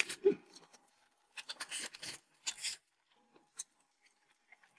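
Chewing a mouthful of large fried chicken cutlet that has gone cold and is no longer crisp: a few short, faint chewing noises about a second and a half and two and a half seconds in, and a single click a little later.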